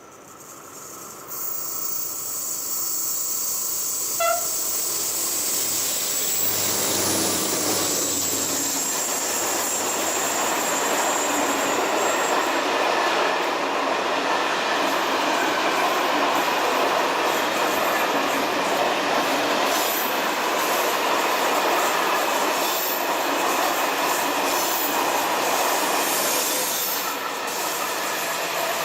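Two SNCF BB67400 diesel-electric locomotives working in multiple, hauling a heavy train of tipper wagons up a steep gradient: the engine sound builds over the first several seconds as they approach and pass. It is followed by the steady rumble of the wagons rolling by, with wheel squeal and clickety-clack.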